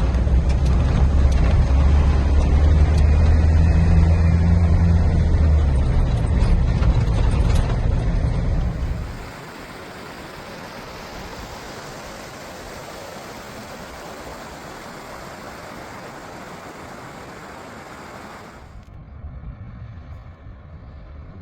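A vehicle driving, with a steady low engine and road drone for about the first nine seconds. It then cuts suddenly to a quieter, even hiss, which turns duller and quieter near the end.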